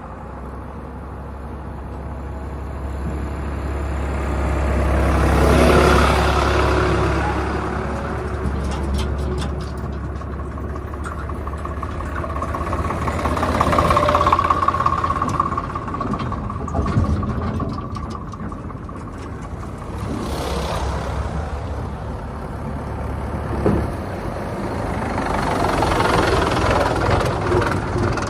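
Heavy diesel vehicle engines running, swelling louder about six and fourteen seconds in and again near the end.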